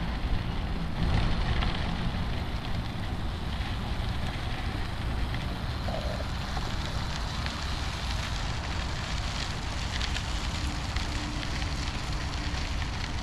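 Steady wind rush and rumble on the microphone, as heard from a moving bicycle, with no distinct events.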